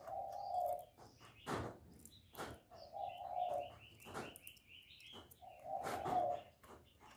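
Spotted dove cooing, a low note of under a second repeated about every three seconds, the call used to lure wild doves. A quick run of higher chirps from a smaller bird comes in the middle, with several sharp clicks or knocks between the coos.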